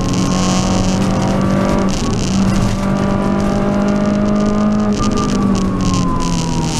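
Renault Clio Sport rally car's four-cylinder engine running hard, heard inside the cabin: its note holds steady, dips briefly about two seconds in, climbs slowly, then falls away over the last two seconds as the revs drop. A steady road hiss runs underneath.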